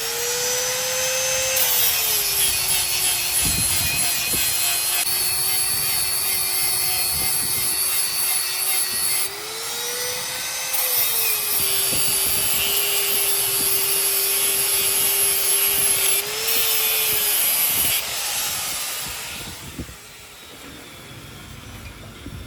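Electric power tool running and rubbing against a workpiece, its motor tone dropping when it bears down and rising again three times as the load comes off. The sound fades away near the end.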